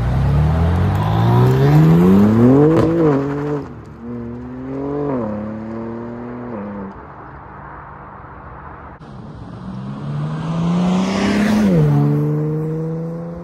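BMW M3 Competition's S58 twin-turbo inline-six exhaust, fitted with a MAD single midpipe, heard in a few short cut-together clips. The note climbs and then falls away sharply, gives a brief blip, and later rises again in a long pull before dropping suddenly to a lower steady note.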